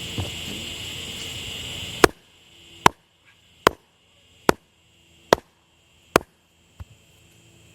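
Sledgehammer blows tapping a sawmill-track base down to level: seven sharp separate strikes, a little under one a second, starting about two seconds in.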